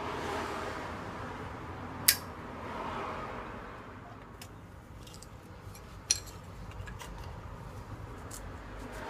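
Two sharp metallic clinks of camping cookware being handled, about four seconds apart, with a few lighter ticks after the second, over a steady hiss.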